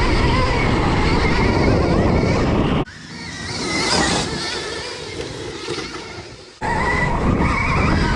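Onboard riding noise of a Stark Varg electric dirt bike: the motor's whine wavers up and down with the throttle over heavy rumble and wind. About three seconds in the sound cuts to a quieter stretch where a whine swells and fades, then cuts back to the loud riding noise near the end.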